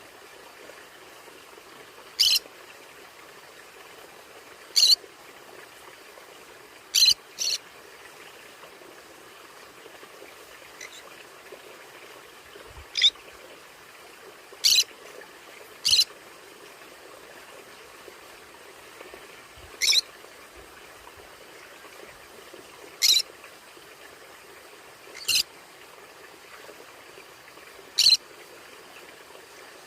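A pet conure calling in single short, sharp squawks, about a dozen of them at irregular intervals of two to three seconds, with a quick double call about seven seconds in.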